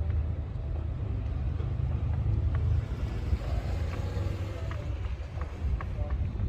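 Low, steady rumble of vehicle traffic going by, louder in the first half, with a few light clicks.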